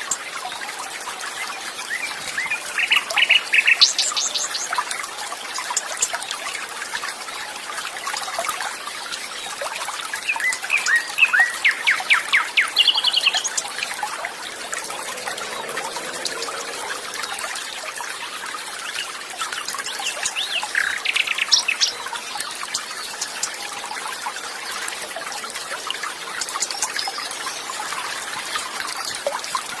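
Birds singing over a steadily trickling stream: bursts of rapid repeated chirping notes about two seconds in, around ten to thirteen seconds in, and again a little past twenty seconds, with fainter calls near the end.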